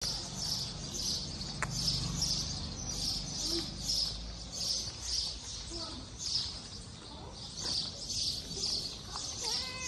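A bird chirping over and over, a short high chirp repeated evenly a little under two times a second, with a low rumble under it in the first few seconds.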